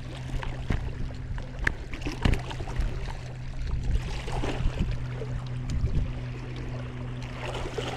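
A steady low hum runs under irregular knocks and rustling.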